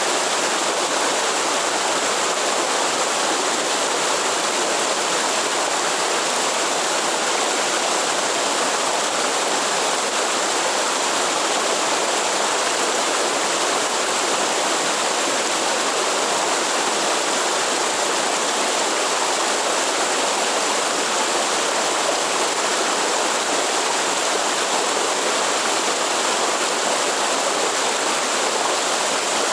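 A waterfall or forest stream, its water rushing in a steady, unbroken hiss.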